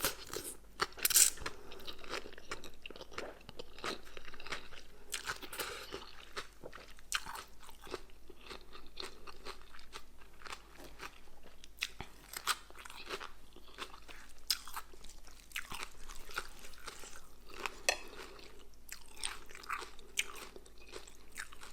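A person eating crunchy food, with irregular crisp crunches and chewing throughout. The loudest crunch comes about a second in.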